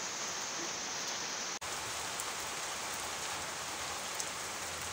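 Rain falling steadily, an even dense hiss with one momentary dropout about one and a half seconds in.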